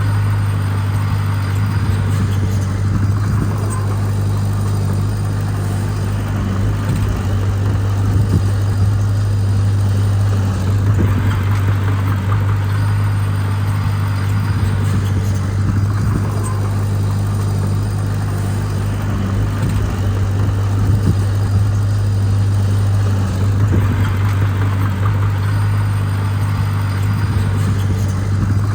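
Heavy-equipment diesel engine running steadily, with a constant low hum and no sharp changes in level.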